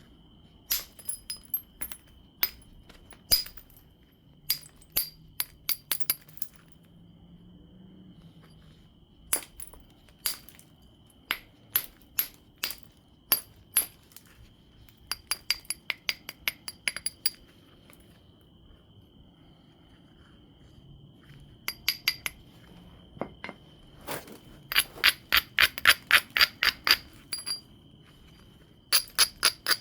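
Obsidian biface being worked with knapping tools: sharp, glassy clicks and ticks, scattered and irregular, then a quick run of about six a second near the end.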